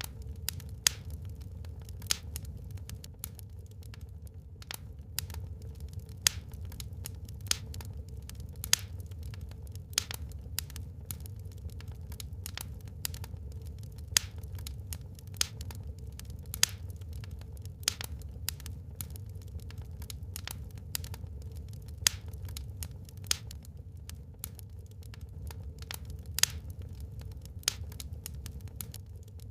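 Wood fire burning in a fireplace: irregular sharp crackles and louder pops, about one or two a second, over a steady low rumble.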